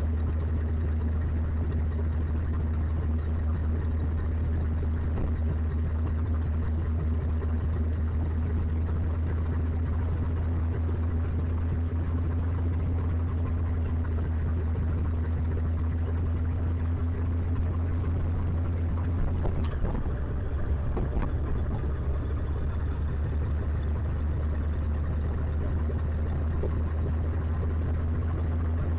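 Motorcycle engine running at a steady pitch with a deep, even rumble. About two-thirds of the way through its tone briefly changes, with a couple of short knocks, then settles again.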